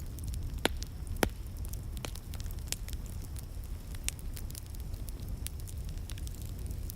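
Wood fire crackling in a fireplace: scattered pops and snaps over a steady low rumble, with two sharper pops in the first second or so.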